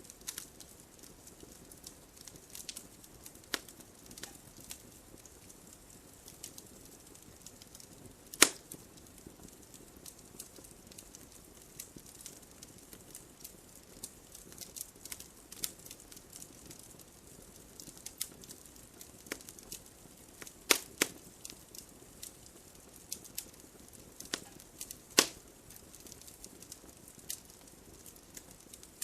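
Wood logs burning in a fireplace: scattered sharp crackles over a soft hiss, with a few louder pops, the loudest about a third of the way in and a couple more in the last third.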